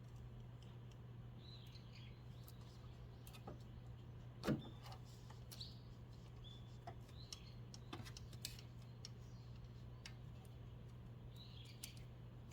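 Faint, scattered clicks and light knocks, with one sharper, louder clank about four and a half seconds in, over a steady low hum. Short bird chirps come and go in the background.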